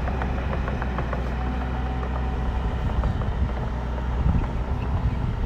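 Bulldozer's diesel engine running steadily, with a few scattered knocks.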